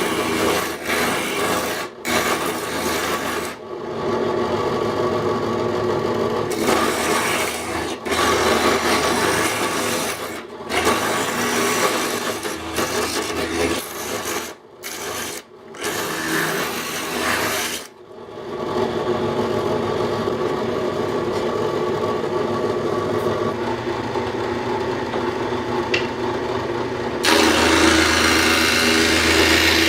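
Power tools working wood, running steadily in a string of short, abruptly cut clips, the loudest stretch starting near the end.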